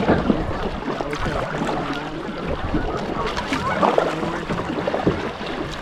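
Outdoor river ambience from a kayak: wind rumbling on the microphone over the wash of moving water, with faint distant voices about three to four seconds in.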